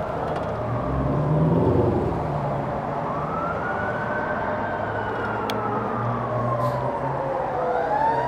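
Emergency vehicle siren wailing, its pitch sliding slowly up and down, over steady street noise.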